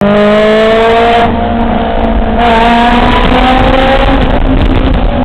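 Honda S2000 inline-four with a Skunk2 cat-back exhaust, Megan Racing header and Berk test pipe, accelerating hard in a tunnel: the exhaust note climbs in pitch, drops back and quietens a little about a second in, then climbs again before easing off near the end.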